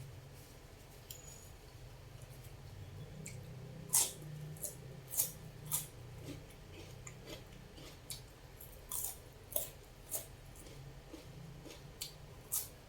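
Eating sounds close to the microphone: a scattering of short, sharp crunches and mouth noises as something crispy is chewed, over a low steady hum.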